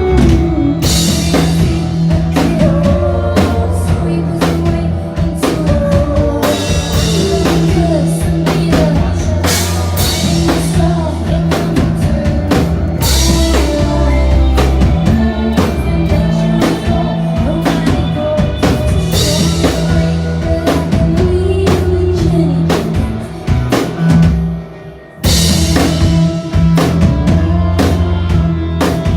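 Live indie rock band playing loud, with a full drum kit, electric guitar, bass and singing. The band drops out briefly near the end, then comes crashing back in.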